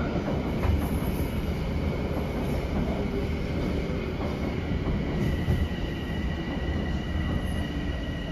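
Metro-North M7A electric multiple-unit train running along the track below, a steady rumble of wheels on rail. A high steady whine comes in about five seconds in.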